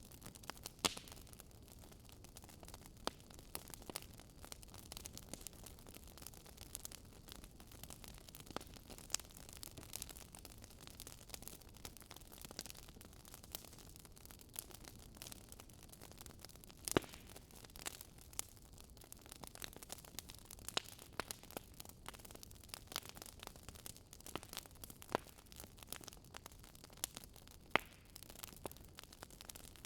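Wood fire crackling: irregular sharp pops and snaps, a few of them louder, over a soft steady hiss.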